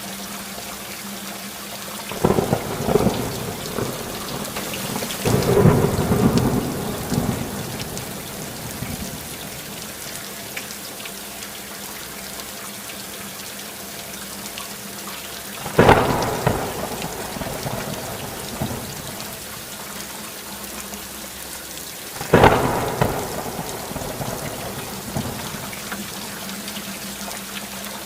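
Steady rainfall with thunder: a long rolling peal that swells a couple of seconds in and again soon after, then two sudden sharp thunderclaps later on, each rumbling away over a few seconds.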